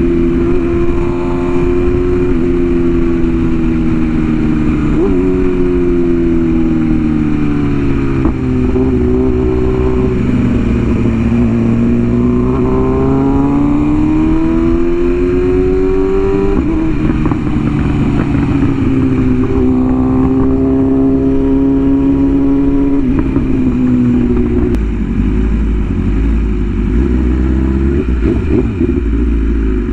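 Inline-four sport bike engine under way, its note climbing and falling as it pulls through the gears, with sudden pitch drops at the shifts. Near the end the clear note gives way to a lower, steadier rumble.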